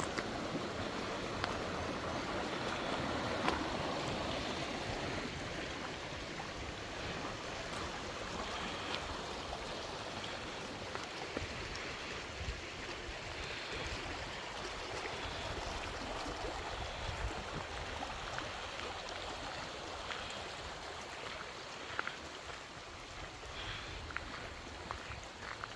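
Steady rush of running water, like a stream, over an uneven low rumble.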